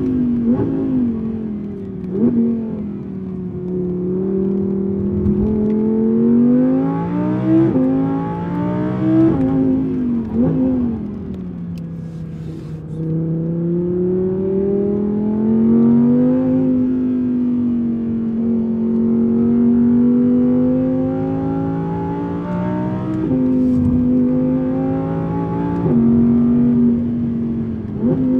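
Audi R8's 610-horsepower 5.2-litre V10 heard from inside the cabin while driven hard through corners, its pitch climbing under acceleration and falling off into the bends, with several sudden drops in pitch at gear changes.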